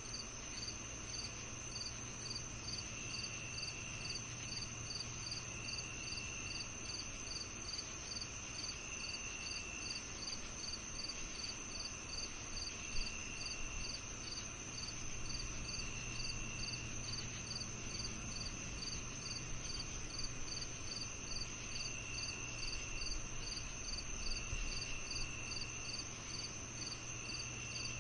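Crickets and other night insects calling together: a steady high trill, a chirp pulsed evenly about twice a second, and a lower buzzing call that starts and stops every couple of seconds. A faint steady low hum lies underneath.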